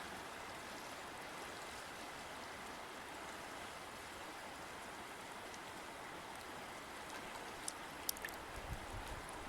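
River water flowing steadily with an even rushing sound. A few sharp ticks and some low thumps come near the end.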